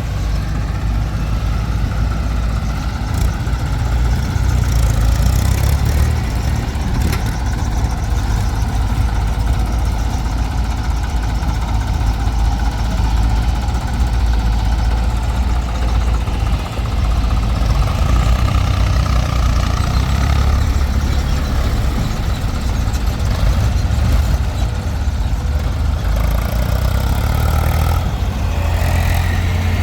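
Heavy diesel engine running steadily at a low, even pitch, with a few faint clicks and knocks.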